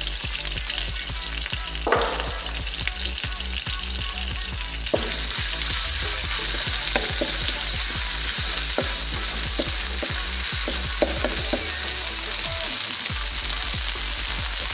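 Ground spice paste (garlic, shallot, candlenut, chili, ginger, turmeric) sizzling in hot oil in a pan, stir-fried until fragrant, with a spatula scraping and knocking against the pan again and again. The sizzle gets louder about five seconds in.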